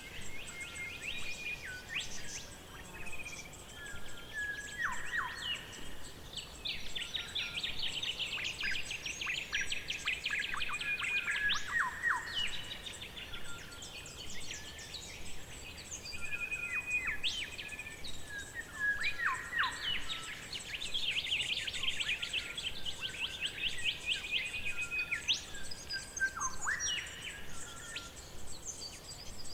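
Several forest birds singing and calling together: short chirps, whistled notes that sweep downward, and a fast rapid trill that runs for several seconds twice, first about a quarter of the way in and again past the middle.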